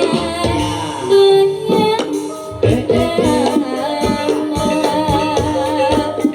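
Dangdut-style jaranan music: hand drums keep a driving beat under a wavering, vibrato melody line.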